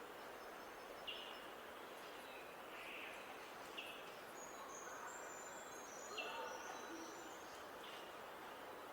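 Several birds calling and chirping in short, scattered notes over a steady background hiss.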